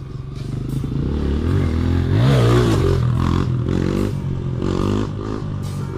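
Motorcycle engine revving under acceleration, getting louder after the first second, its pitch climbing sharply about two seconds in, then dropping and rising again several times.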